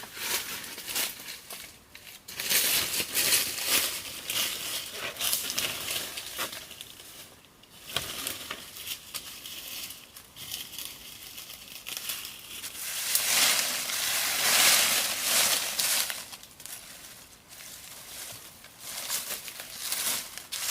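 Irregular crackling and rustling, made of many small crisp clicks. It is louder about two to five seconds in and again about thirteen to sixteen seconds in.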